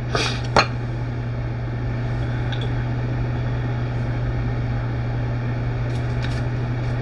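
A steady low hum throughout, with two sharp clicks about half a second in.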